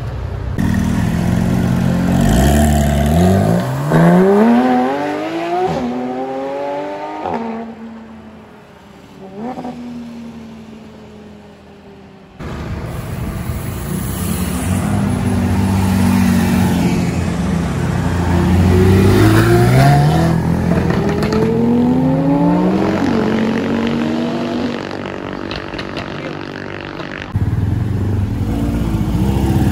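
Superbike engines revving and accelerating away. The pitch climbs sharply several times, with a quieter stretch in the middle and sudden jumps in level where shots are cut together.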